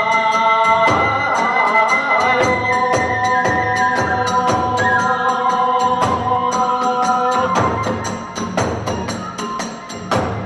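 Kagura hayashi ensemble playing: a bamboo flute holds and steps between sustained notes over a fast, steady clashing of small hand cymbals and drum beats.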